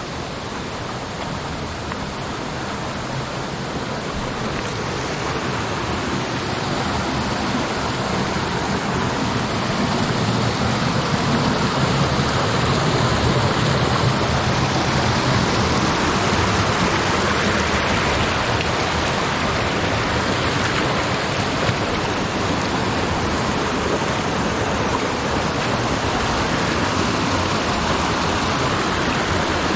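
Mountain stream rushing over rocks in a steady roar of water, growing louder over the first ten seconds or so and then holding steady.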